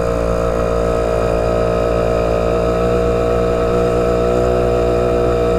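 Motorcycle engine running at a steady speed while riding, its note holding an even pitch throughout.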